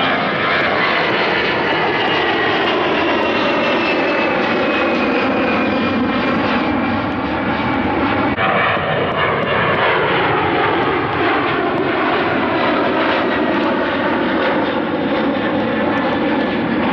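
Airliner engines passing close by, loud and steady, their tones sliding down in pitch as the aircraft goes past.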